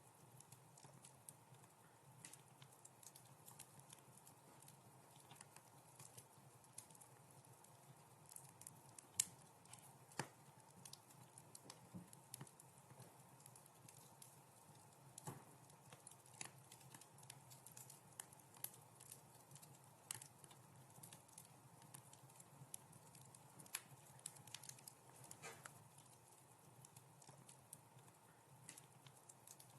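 Wood fire in a fireplace crackling faintly, with scattered sharp pops over a soft steady background; the loudest pop comes about nine seconds in.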